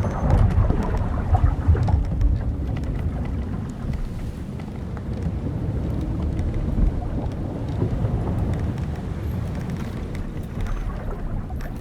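Wind and sea around an old wooden sailing ship: a steady rush with a low rumble that is heaviest in the first couple of seconds. Small scattered creaks and knocks come from the ship's timbers and ropes.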